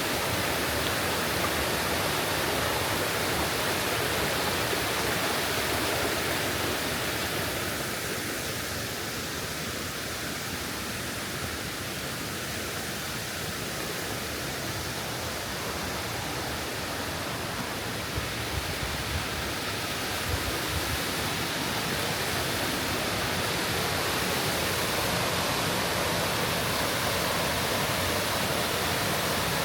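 Steady rush of water in a mountain stream with waterfalls, easing slightly in the middle and building again near the end, with a few faint clicks.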